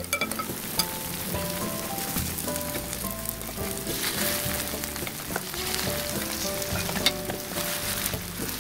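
Starch-coated sweet potato sticks sizzling as they fry in a little oil in a pan, turned over with a spatula, with a few sharp clicks of the spatula against the pan.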